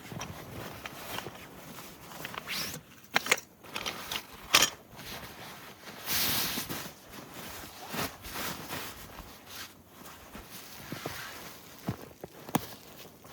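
Irregular crunches, clicks and knocks with a short rustle about halfway through: someone moving about and handling gear in snow.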